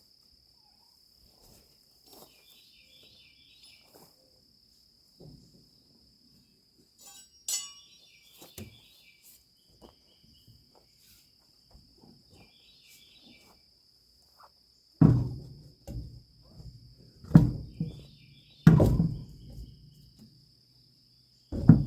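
Crickets chirping in short repeated bursts over a steady high buzz. From about two-thirds of the way in, four loud, heavy clunks with a short ringing tail, plus a few lighter knocks, come from the trailer wheel and hub work.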